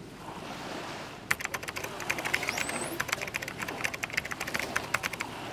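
A rapid, irregular run of sharp clicks starts about a second in and stops shortly before the end, over a steady wash of background noise.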